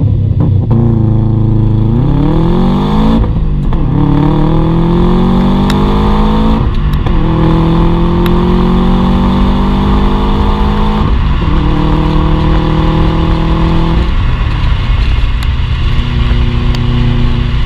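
2005 Subaru Impreza WRX turbocharged flat-four through a de-catted exhaust (pre-cat and secondary cat removed, Cobra Sport rear silencer) accelerating through the gears. The engine note climbs, cuts off sharply and drops at each of three gear changes. It then holds a steady pitch and falls to a lower, rougher note as the throttle eases near the end.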